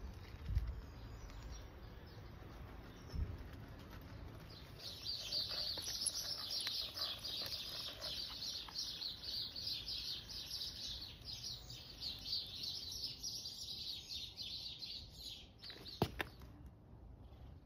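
A small songbird singing a rapid, continuous chattering song for about ten seconds, with a single sharp click near the end.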